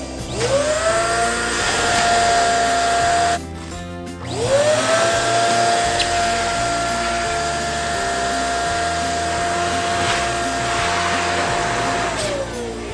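Electric balloon pump running twice. Each time its motor spins up to a steady whine. The first run cuts off suddenly after about three seconds; the pump starts again a second later, runs for about eight seconds, and winds down in pitch near the end. Music plays underneath.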